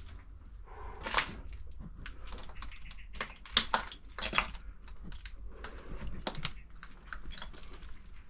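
Footsteps crunching and snapping over debris, an irregular run of clicks and cracks, loudest about a second in and again around four seconds in.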